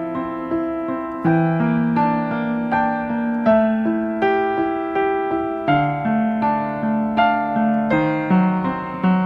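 Background piano music: a slow, gentle melody of struck notes that ring and fade, a new note about every half second.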